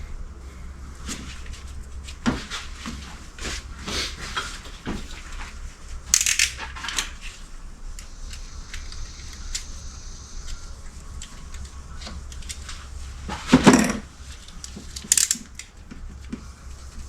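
Metal tools and parts being handled: scattered clinks, clicks and knocks, with a louder clatter about two-thirds of the way through, over a steady low hum.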